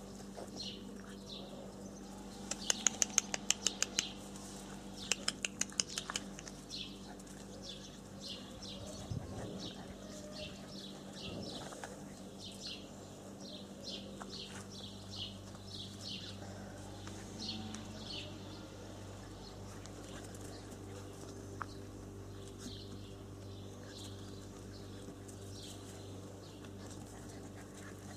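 Short high chirps repeating every second or so, typical of small birds, over a low steady hum. Two brief runs of rapid sharp clicks come a few seconds in.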